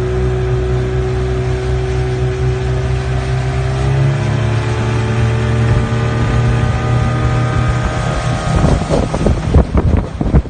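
Motorcycle engine running steadily, its pitch rising slowly as it speeds up. Wind buffets the microphone over the last two seconds.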